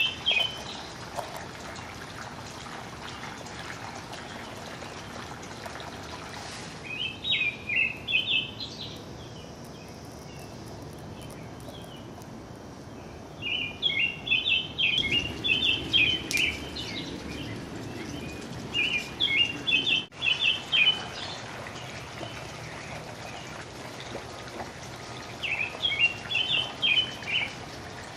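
A songbird singing in short phrases of rapid, jumbled high notes, repeated about five times with pauses between, over a steady background hiss.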